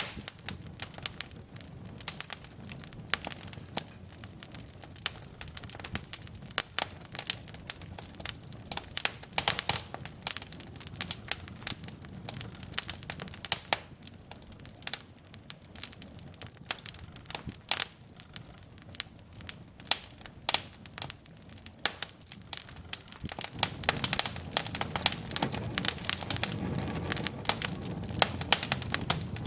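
Wood fire burning in a fireplace: irregular sharp crackles and pops of burning logs over a low rush of flame, which grows fuller and louder about three quarters of the way through.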